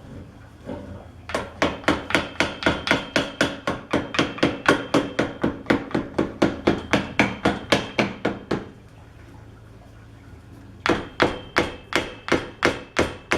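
Hammer tapping on metal drill press parts in a quick, steady rhythm of about four strikes a second, each with a short metallic ring, driving a part back down into place. The tapping stops for about two seconds partway through, then starts again.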